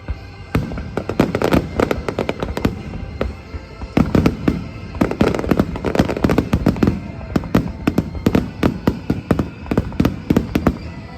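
Fireworks going off in a rapid string of bangs and crackles, thickest about four to seven seconds in and again near the end.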